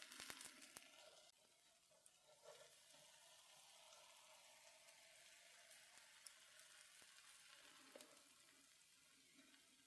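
Faint sizzling and crackling of wood embers in a fireplace with a chicken roasting over them, with a few small ticks scattered through.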